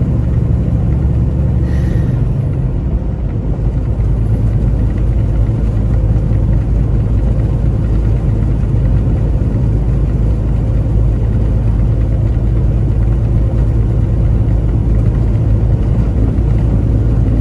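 Semi-truck engine and road noise: a steady low drone while driving, the engine note dropping about two seconds in and then holding steady.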